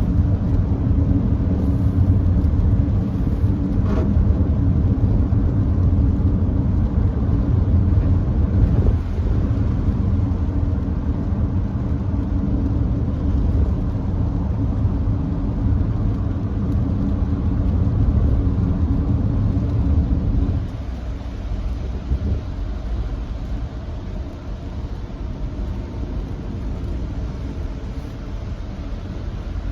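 Steady low road rumble and tyre noise of a Nissan Note e-POWER driving on a wet expressway. The rumble drops noticeably about two-thirds of the way through.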